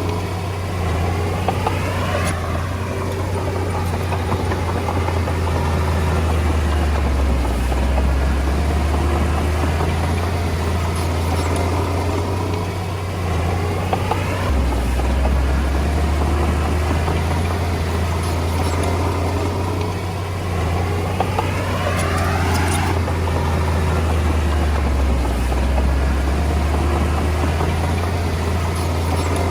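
Komatsu D20A bulldozer's diesel engine running steadily at work, its pitch dipping and rising again a few times.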